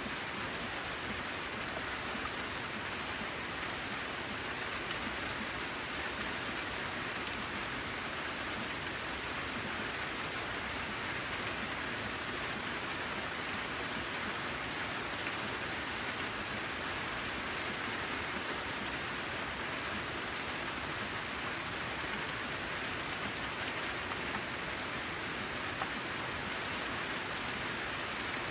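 Steady rain, an even hiss with faint scattered drop ticks and no change in intensity.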